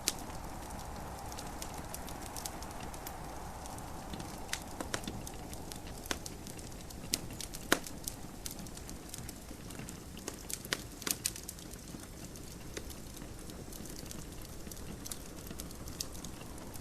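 Wood fire crackling in a fireplace, with irregular sharp pops and snaps that come thickest in the middle, over a steady hiss of gentle rain.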